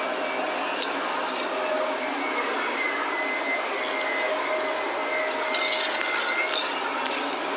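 Shark vacuum cleaner running steadily with a whine. Crackling crunches of debris being sucked up come about a second in and again in a cluster near the end.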